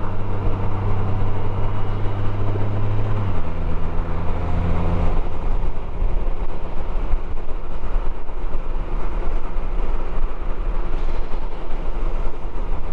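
Motorcycle engine running at a steady pitch, which steps down slightly about three seconds in. From about five seconds in, its tone gives way to an even rumble of wind and road noise.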